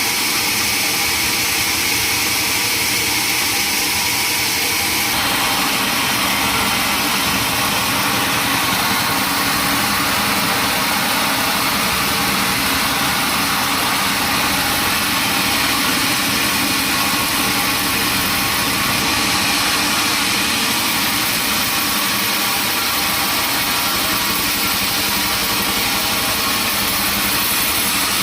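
Sawmill machinery running steadily: a loud, continuous mechanical drone with hiss, its tone shifting slightly about five seconds in.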